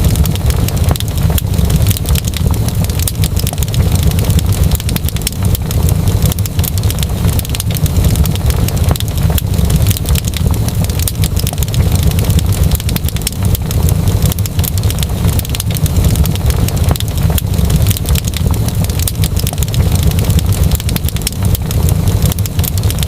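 Wood fire crackling in a fireplace: dense, irregular sharp crackles and pops over a steady low rumble of the flames.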